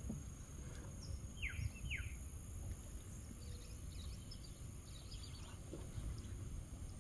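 Wild birds calling over a swamp lake: two short falling whistles about a second and a half in, then faint, scattered high chirps. Under them runs a steady low rumble of outdoor background noise.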